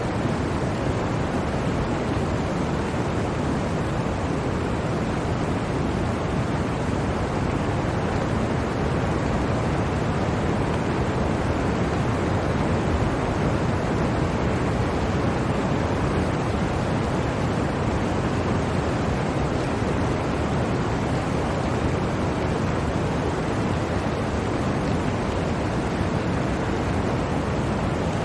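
Blizzard wind blowing as a steady, even rushing noise, deep and full, with no gusts, breaks or separate events.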